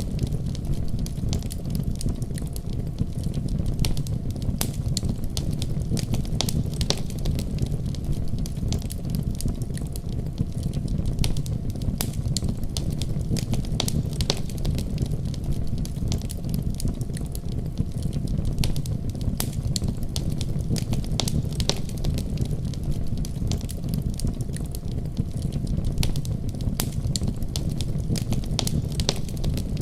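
Wood fire crackling with frequent sharp pops and snaps over a steady, deep rumble of storm wind.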